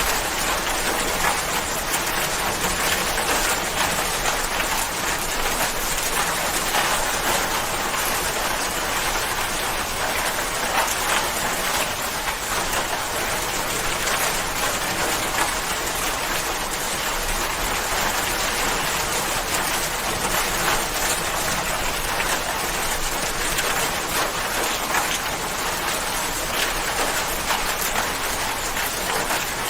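Steady rain falling on a surface, an even hiss of many drops with fine patter.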